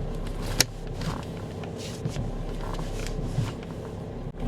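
Car engine idling steadily with the power steering working and no pump hum: the whine has gone after a friction additive was put in the power steering fluid. A sharp click about half a second in.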